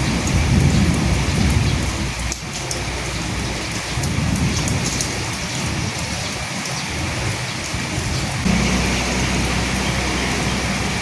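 Steady heavy rain falling, with a low rumble of distant thunder swelling in the first couple of seconds and again about four seconds in. The low end of the sound changes abruptly about eight and a half seconds in.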